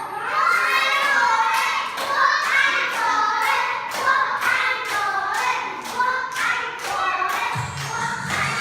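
Children's voices singing a song with hand claps keeping time, about two a second. A bass beat comes in near the end.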